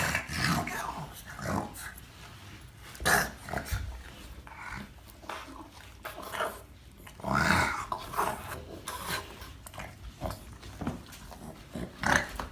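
A dog vocalizing in short, irregular bursts, with two louder outbursts about three and seven and a half seconds in.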